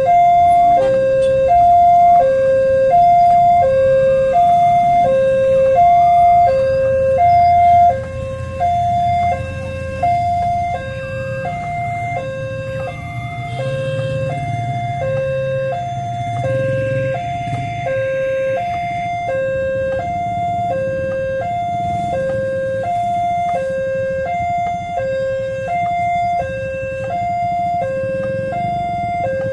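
Railway level-crossing warning alarm sounding an electronic two-tone chime, high and low notes alternating about once a second, with road traffic rumbling underneath. It gets a little quieter about eight seconds in.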